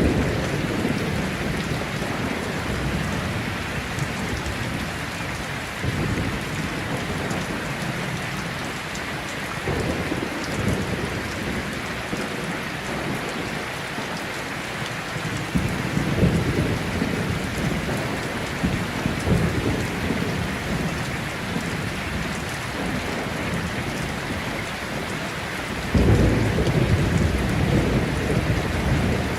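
Heavy rain falling steadily in a thunderstorm, with rolls of thunder rumbling through it again and again; the loudest roll starts near the end.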